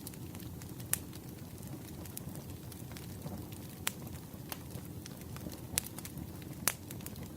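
Campfire crackling: a steady low rush of burning with scattered sharp pops from the wood, a few of them louder than the rest.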